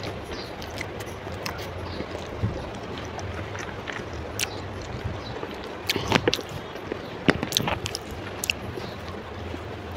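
Close-miked chewing of soft instant noodles, with wet mouth clicks and smacks scattered through, most of them bunched about six to seven seconds in.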